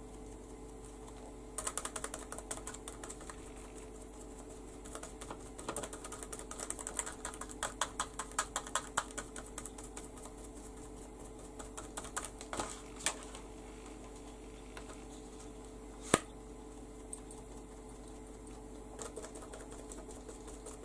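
Makeup sponge dabbing ink through a stencil onto a paper page: runs of quick light taps, in three bursts with pauses between, and one sharper click about sixteen seconds in.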